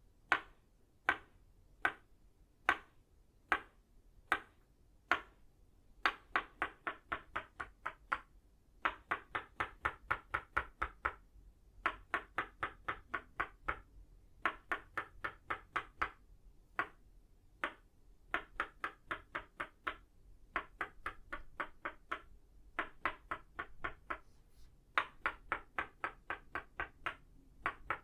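Tok Sen wooden mallet striking a wooden stake, both of itauba wood, each strike a sharp knock with a short ringing tone. It starts with single strikes about once a second, then moves into quick runs of about five knocks a second broken by short pauses.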